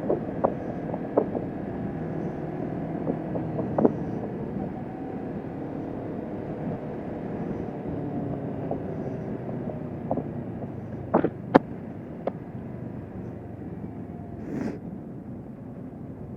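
Kawasaki Vulcan S 650's parallel-twin engine running steadily while riding at cruising speed, with a few short sharp clicks through it.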